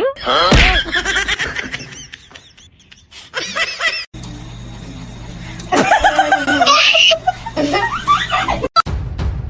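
Bursts of laughter with music underneath, broken up by abrupt cuts between short clips.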